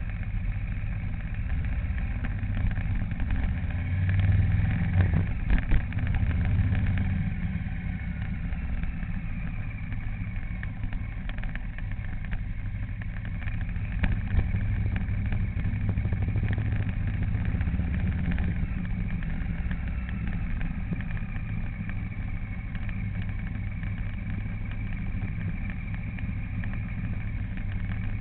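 Motor vehicle engine running steadily on the move, with a few sharp knocks about five to six seconds in.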